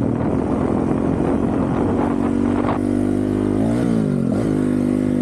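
Honda CRF450RL's single-cylinder four-stroke engine, fitted with a titanium Yoshimura RS-4 exhaust, running steadily under throttle. Near the end the revs briefly rise and fall twice.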